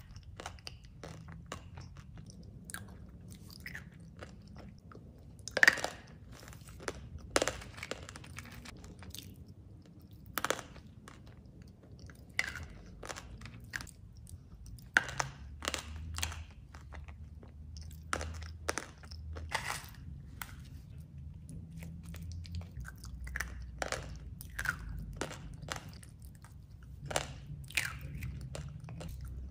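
Close-miked chewing and crunching of a creamy chocolate dessert with crisp chocolate pieces: irregular sharp crunches with softer chewing between them, the loudest crunch about six seconds in.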